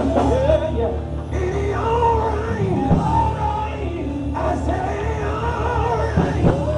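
Gospel church music played by a live band, with a voice singing or hollering long held notes that bend slowly in pitch over a steady low bass line.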